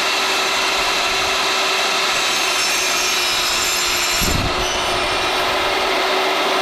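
Power saw running steadily and cutting cedar boards, with a constant whine over its noise and a brief deeper swell about four seconds in as the blade bites into the wood.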